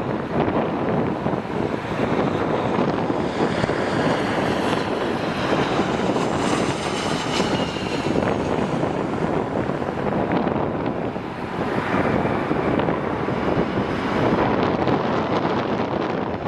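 Wind buffeting the microphone steadily, with a jet aircraft's engine whine coming up through it in the middle and dropping in pitch as it passes.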